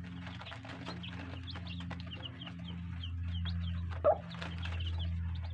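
Chickens calling: many short high peeps throughout, with one louder short call about four seconds in, over a steady low hum.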